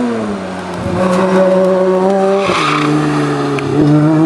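Racing car engine on a hillclimb course, its revs falling at first, then holding steady, dropping sharply about two and a half seconds in and climbing again near the end. A short burst of tyre squeal comes with the sharp drop.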